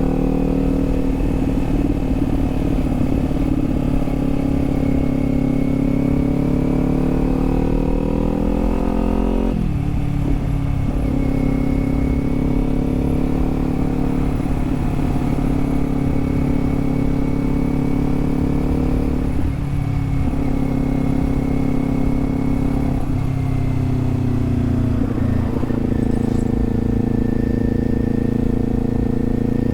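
Kawasaki Z400's parallel-twin engine under way, its pitch climbing steadily for about ten seconds and then dropping sharply at a gear change, with further dips in engine speed later on. A constant low rumble of wind and road noise runs underneath.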